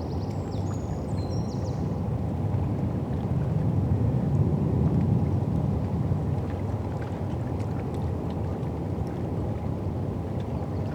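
Low, steady rumble of a boat's engine out on the river, swelling a little about halfway through and then easing off. A bird chirps briefly at the start.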